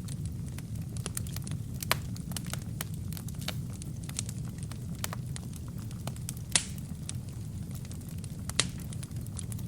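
Wood fire burning in a fireplace: a steady low rumble of the flames with frequent small crackles and a few louder sharp pops, about two seconds in, midway, and near the end.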